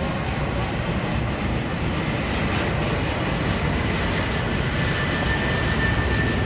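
Airbus A380's four Rolls-Royce Trent 970 turbofans on a landing approach: a steady jet rumble, with a high whine that comes in about two seconds in and sinks slightly in pitch as the sound grows a little louder.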